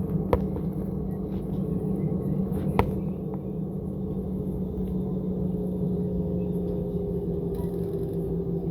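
Steady cabin drone of an Airbus A320 with its engines running at taxi, a low even hum with a fainter higher tone over it. Two sharp clicks come a fraction of a second in and again just under three seconds in.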